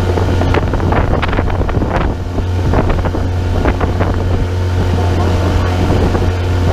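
An engine drones steadily at a constant low pitch, with wind buffeting the microphone. Short scattered sounds come through over it in the first few seconds.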